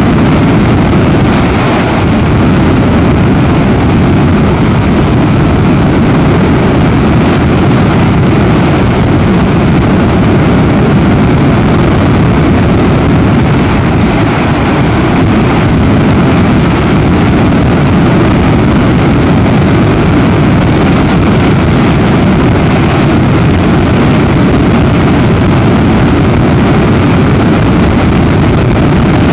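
Very strong storm wind buffeting an outdoor nest-camera microphone: a loud, steady rumbling rush, heaviest in the low end.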